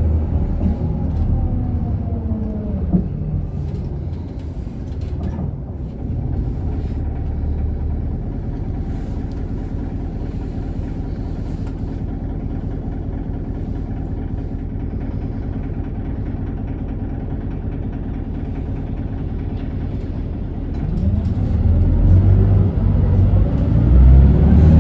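Diesel engine of a 2019 Isuzu Erga city bus, heard from inside the cabin: it winds down as the bus slows, idles steadily for about fifteen seconds with an idle noise that is on the loud side, then revs up again as the bus pulls away near the end.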